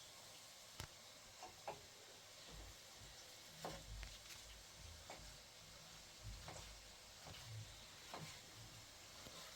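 Near silence: a faint steady hiss with a few soft, irregular clicks and light taps scattered through, the sharpest about a second in.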